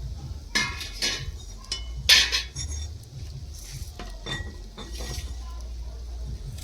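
A kitchen utensil clinking against cookware about nine times at irregular intervals, with the loudest strike about two seconds in, over a low steady hum.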